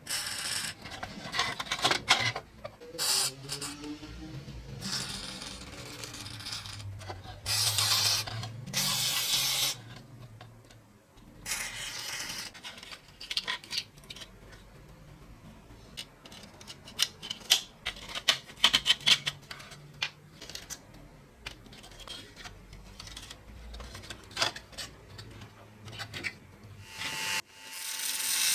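Hand work on small rusty metal parts: intermittent scraping and rubbing strokes, each a second or so long, with scattered clicks and clinks of metal pieces.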